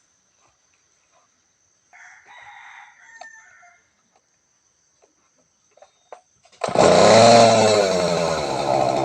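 Makita 40cc two-stroke chainsaw engine bursting into loud running about two-thirds of the way in, its pitch rising and falling as it revs, after a faint brief noise earlier on.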